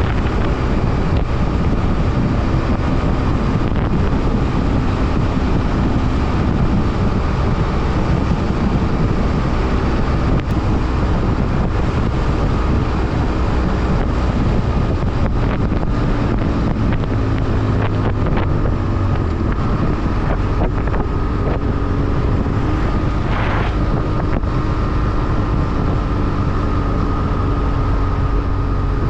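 BMW F800R's parallel-twin engine running while riding, under heavy wind rush on the microphone; the engine note shifts in pitch a little past the halfway point.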